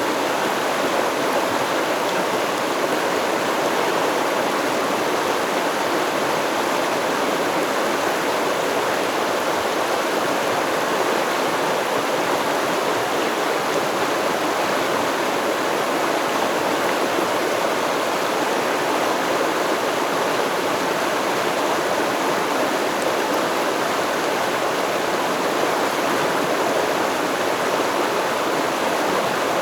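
Running water of a flowing stream: a steady, even rush with no change in level.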